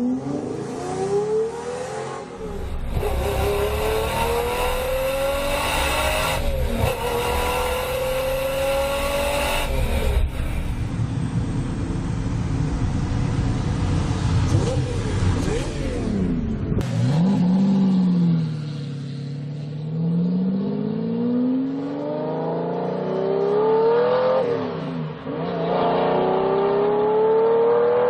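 Lamborghini Diablo V12 engine accelerating hard, its pitch climbing through each gear and dropping back at the shifts, several times over. The sound changes abruptly at a few points where separate recordings are joined.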